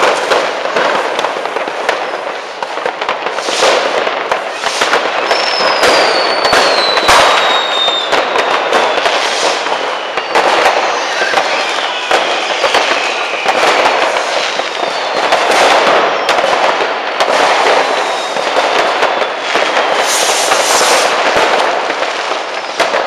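Dense barrage of fireworks: continuous crackling and popping of firecrackers and bangs of rockets, with long falling whistles from whistling fireworks, one about a quarter of the way in and more through the middle.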